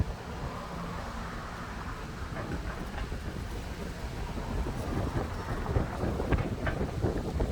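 Strong gusty wind buffeting the microphone: a rumbling, uneven roar with a rustling hiss above it, growing a little stronger in the second half.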